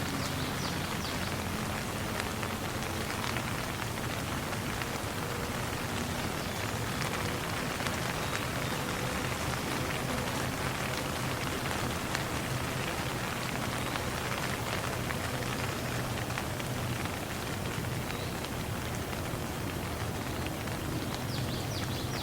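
Steady rain falling, with many small drops ticking on a hard surface at an even level.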